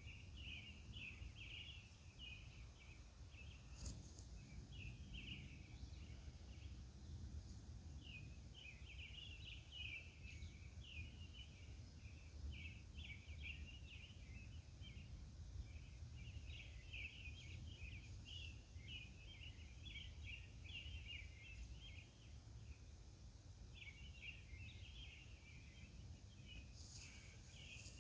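Faint night-time outdoor ambience: irregular runs of short, high chirps going on and off throughout, over a steady low rumble.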